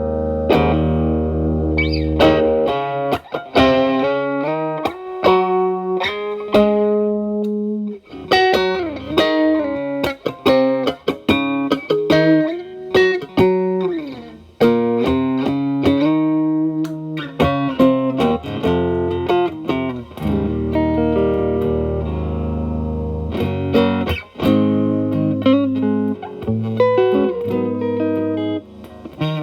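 Electric guitar (Telecaster) played through an E.W.S. Brute Drive BD-1 distortion pedal at gain 9 into a Marshall Valvestate amp's clean channel, giving a driven, distorted tone. The playing moves between picked single-note lines and held, ringing chords, with short breaks between phrases.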